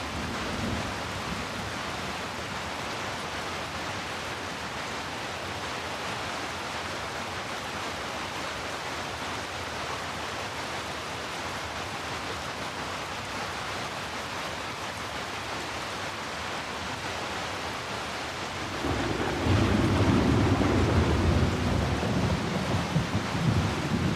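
Steady rain falling as an even hiss. About three-quarters of the way through, a low rolling rumble of thunder swells in over it and keeps rolling.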